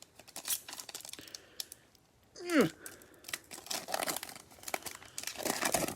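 Trading-card pack wrappers crinkling and tearing open, with the clicks of cards being handled. About two and a half seconds in comes a short vocal sound that falls sharply in pitch.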